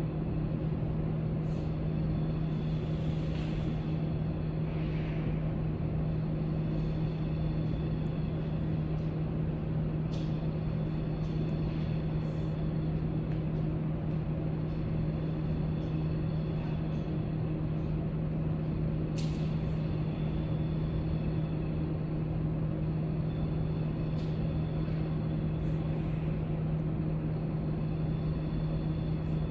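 Library room tone: a steady low hum over an even background noise, with a few faint clicks and a soft rustle scattered through.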